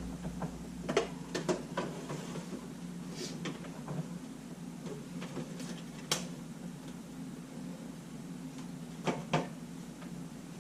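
Scattered clicks and knocks of small camera parts and camera bodies being handled on a workbench. There is one sharp click about six seconds in and a quick pair of knocks near the end, over a steady low hum.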